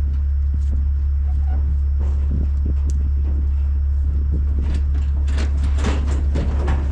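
Steady low engine rumble, like a diesel idling close by. From about five seconds in, a run of sharp clattering and knocking sits on top of it.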